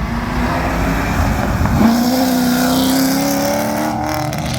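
Chevrolet Camaro accelerating hard as it pulls away, its engine note climbing steadily from about two seconds in.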